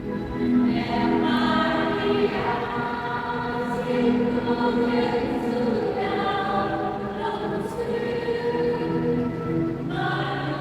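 Choir singing a church hymn, many voices together in sustained phrases.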